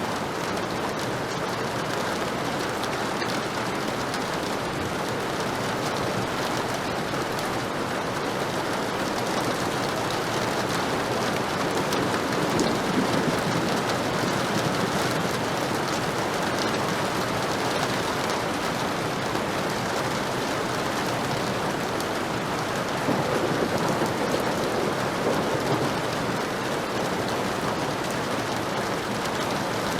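Heavy rain falling steadily, with a low rumble of thunder swelling up twice, about twelve seconds in and again around twenty-four seconds.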